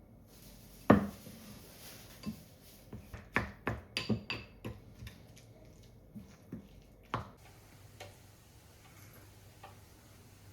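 Kitchenware being handled: a single loud knock about a second in, a quick run of clicks and clinks a couple of seconds later, and another knock near the middle.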